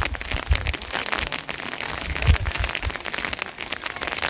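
Rain falling, a dense run of individual drop hits, with a few low thuds in the first two-thirds, the loudest about two seconds in.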